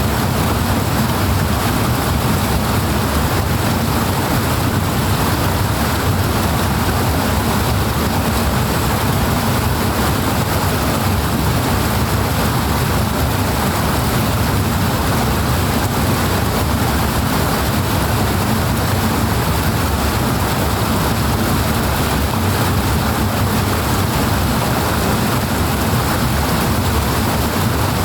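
Powerful rushing water: a loud, steady wash of noise that never changes.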